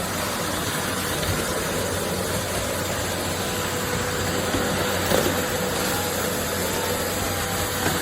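Hoover H-Energy 300 cylinder vacuum cleaner running steadily, a constant motor and airflow noise.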